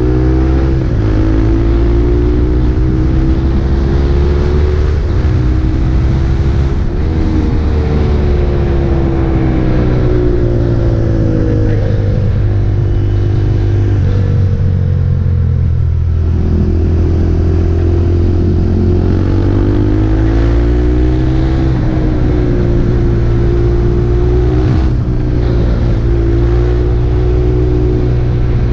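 KTM RC 390's single-cylinder engine through an Akrapovič exhaust while riding, its pitch falling and rising several times as the bike accelerates, shifts and slows, over a steady low rumble.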